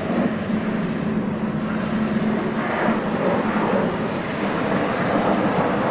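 Pressure washer running, its water jet spraying with a loud, steady rush, with a low motor hum under it for the first half.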